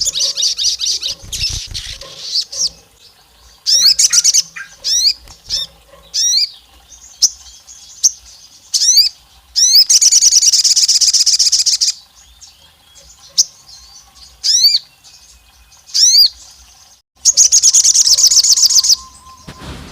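A sogon, a songbird kept in Indonesia, singing loudly. Rapid high chattering trills of a second or two alternate with single sharp whistles that slur downward, given one at a time with gaps between.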